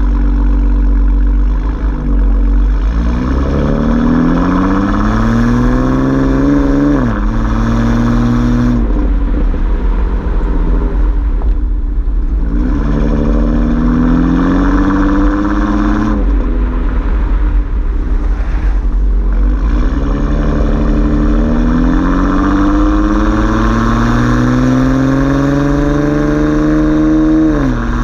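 Chevrolet Camaro 3.6-litre V6 through a Borla ATAK axle-back exhaust, pulling under acceleration. Three times the engine note climbs over several seconds and then drops sharply to a lower steady note, as on upshifts, over a constant deep rumble.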